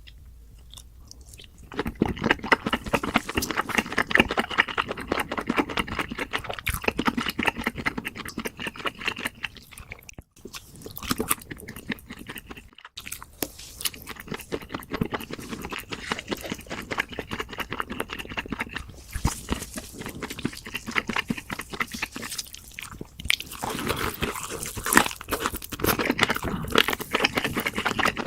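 Close-miked crunchy eating: crisp bites and chewing, a dense rapid crackle that starts about two seconds in and goes on with two brief abrupt breaks.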